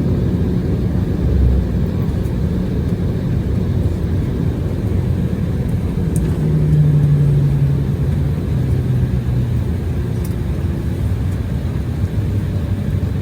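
Steady low rumble of a vehicle in motion, with a low hum that swells for about two seconds around six seconds in and a brief low thump just after a second in.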